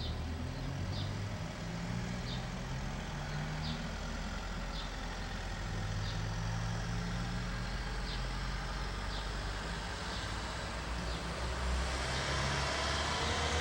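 A bird repeats a short high chirp about once a second over a steady low rumble of road traffic. Near the end, a vehicle comes closer and grows louder.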